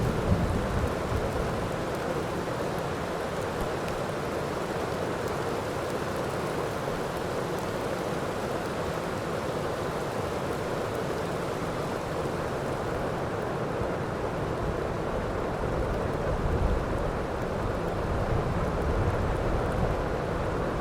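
Steady heavy rain, with low thunder rumbles just after the start and again in the last few seconds.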